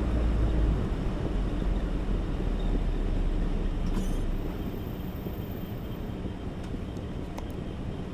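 Steady engine and road rumble of a moving truck; the deepest part of the rumble eases about four and a half seconds in.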